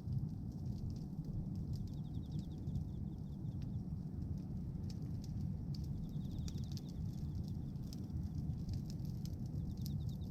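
Bonfire of pruned tree branches and wood burning, with a steady low rumble of flames and scattered sharp crackles and pops from the wood.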